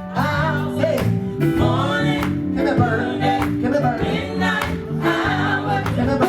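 Live gospel music: voices singing over a band with a held bass line, guitar and a steady drum beat.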